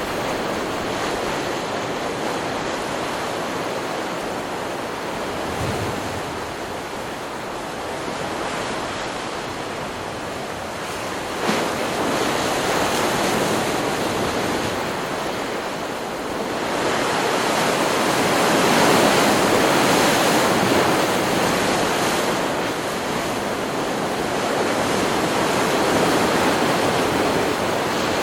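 Ocean surf washing onto a beach: a continuous rush of breaking waves that swells and recedes, building to its loudest surge about two-thirds of the way through. A brief click sounds about a third of the way in.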